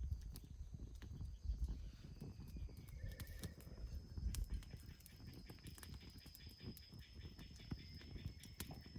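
Wood fire crackling in a fire pit: a run of irregular sharp pops and clicks over a low rumble.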